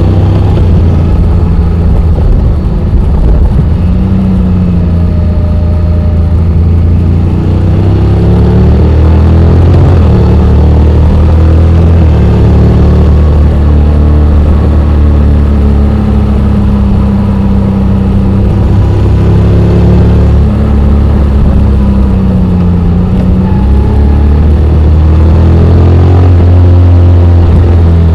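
Honda X-ADV 750's parallel-twin engine running while riding downhill, its revs rising and falling every few seconds.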